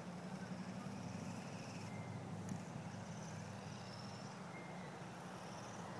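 Radio-controlled helicopter's motor and rotor running with a steady low hum.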